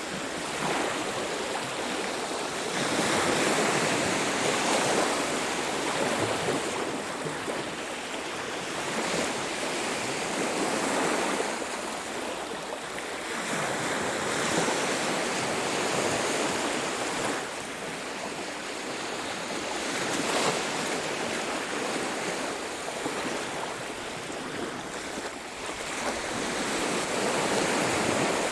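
Ocean surf washing onto a beach: a steady rush of water that swells and falls back every few seconds as waves break and draw back.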